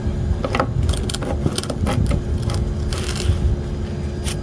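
Clipper blade being cleaned of sharpening debris by hand: a series of short scraping strokes, irregular at first and coming quicker and more evenly near the end.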